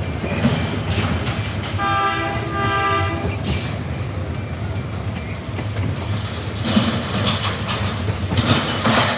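Amusement-park ride train running along its track with a steady rumble, sounding two short toots of its horn about two seconds in.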